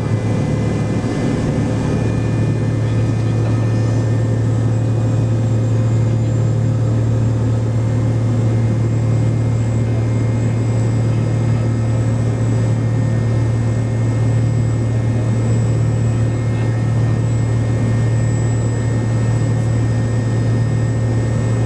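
MD-88's rear-mounted Pratt & Whitney JT8D turbofans heard from a seat beside them in the cabin: a steady, loud low drone with a thin high whine over it.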